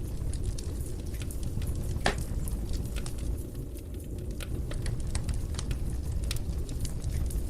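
Fire in a fireplace crackling, with frequent sharp pops over a low steady rumble; one louder pop about two seconds in.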